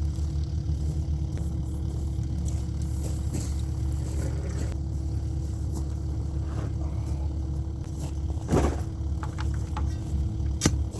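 Excavator diesel engine running steadily under load, with a constant mid-pitched drone over the engine. Two short knocks come about eight seconds in and again near the end.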